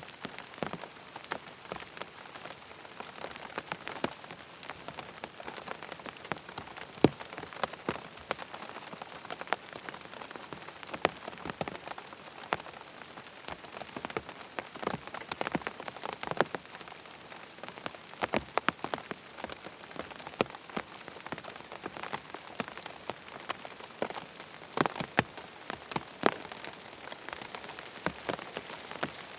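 Steady rain falling on a surface: an even hiss broken by many sharp, irregular clicks of drops.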